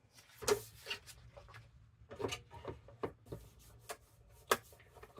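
A paper bag being cut and handled: a string of short, crisp snips and paper crackles, the loudest about half a second in and again near the end.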